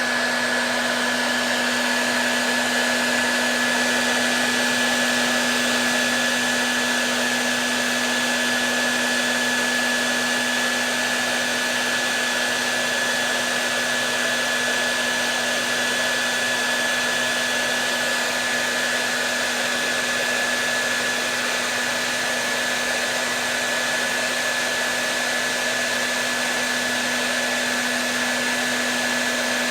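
Hair dryer running steadily: an even rush of air with a steady low hum and a thin high whine, unchanging throughout.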